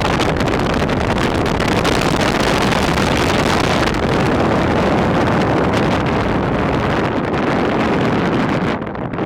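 Loud, steady rushing of wind on the microphone mixed with passing road traffic, easing a little near the end.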